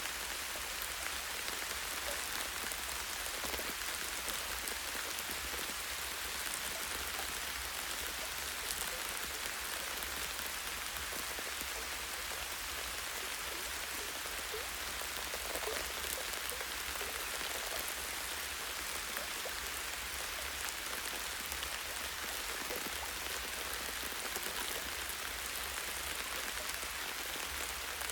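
Light steady rain falling on leaves and branches, a dense even patter of drops.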